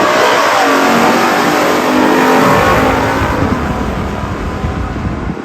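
Muscle-car V8 engines at wide-open throttle running down the drag strip; the engine note falls in pitch over the first couple of seconds, then a deep rumble fades into the distance.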